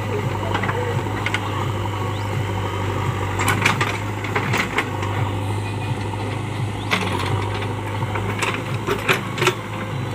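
A JCB backhoe's engine running steadily, with scattered sharp clanks and knocks, several in quick succession about four seconds in and again near the end.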